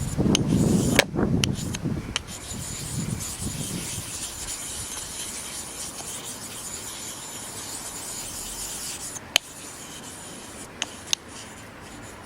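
Nagura stone rubbed back and forth across a wet 6000-grit Japanese water stone, working up a fine polishing slurry. The stone-on-stone scraping is loudest in the first few seconds, then goes on softer, with a few sharp clicks near the end.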